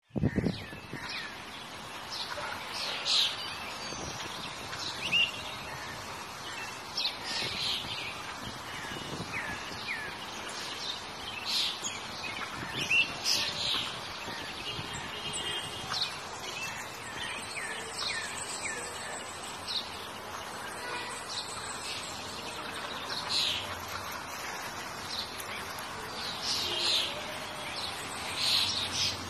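Birds chirping in short, repeated calls scattered throughout, over a steady background hiss.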